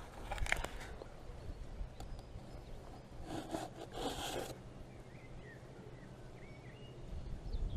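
Two short scraping, rustling bursts about three and a half and four seconds in, with a few sharp clicks near the start, from handling the muddy metal find. A bird chirps faintly a little past the middle.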